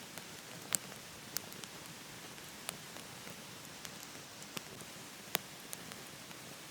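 Wood burning in a wood stove, crackling with irregular sharp pops, the loudest about a second in and again late on, over a steady rushing hiss of falling water from a waterfall.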